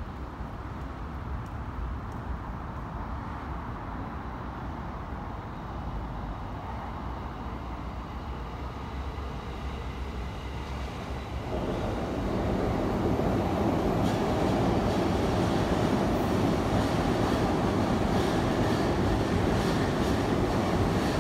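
JR Keihin-Tohoku Line E233 series electric commuter train running past at close range. A steady low rumble gets suddenly louder about halfway through as the train reaches the spot, then holds as a dense rolling noise of wheels on rail, with a faint high whine over it.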